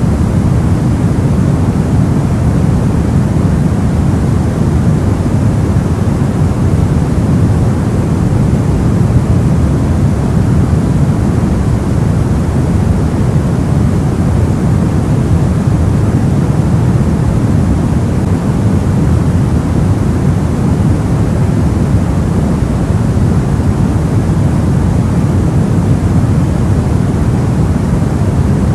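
Soft white noise for sleep: a steady, even hiss that sits mostly in the low end, with a deep, rumbly character and no change throughout.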